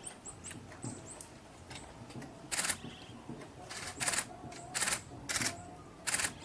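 A camera shutter firing in short rapid bursts, five times in the latter half, with faint, high, short chirps from a small bird earlier on.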